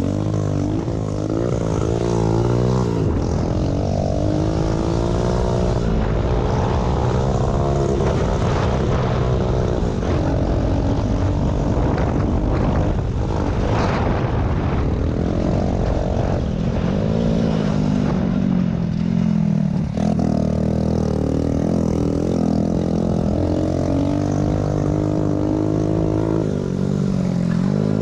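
Small pit bike motorcycle engines running hard, their pitch rising and falling again and again as the bikes rev up and ease off.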